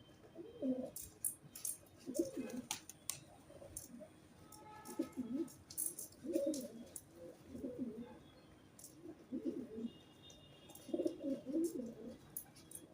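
Pigeons cooing, low calls repeated in groups every second or two. Sharp high clicks and a few short chirps come in between.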